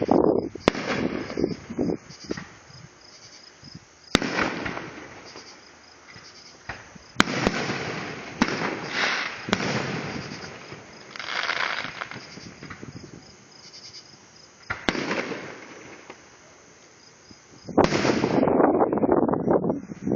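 Fireworks going off: a series of sharp bangs, each followed by a spell of crackling, with quieter gaps between them. The densest and loudest crackling comes near the end.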